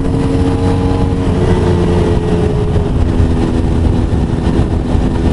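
CFMoto 450SR sportbike engine running at a steady cruise, with wind rumble on the helmet microphone. The engine's pitch steps down once about a second in, then holds steady.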